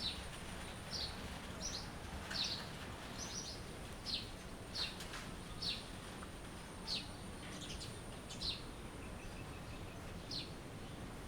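Birds chirping: short, quickly falling high chirps repeated about once a second, over a steady background hiss of outdoor ambience.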